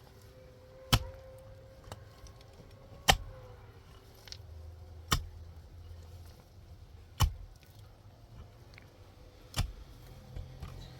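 Five sharp, heavy blows at a slow, even pace, about one every two seconds, like a hand tool striking hard material.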